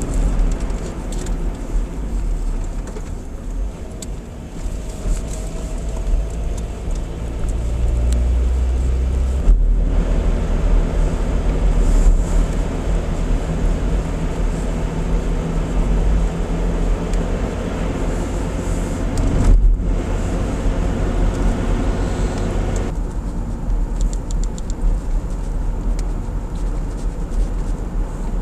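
A car being driven, heard from inside the cabin: a steady low engine and road rumble with tyre noise, the engine note rising and falling. The sound briefly drops out twice, about ten and twenty seconds in.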